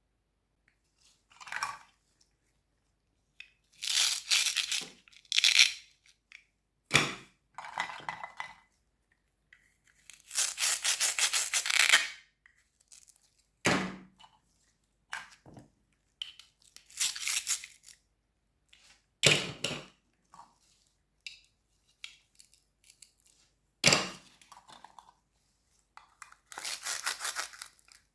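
Crunchy fruits and vegetables being cut and crunched: a string of separate crisp crunching and tearing sounds, each a second or two long, with several sharp knocks in between.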